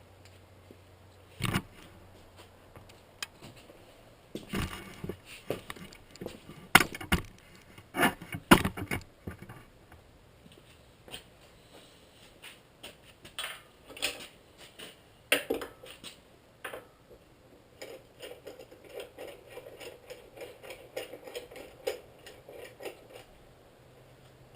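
Hand tools and metal being handled: a series of sharp knocks and clinks, loudest in the first half, then a run of quick, rhythmic scraping strokes in the second half.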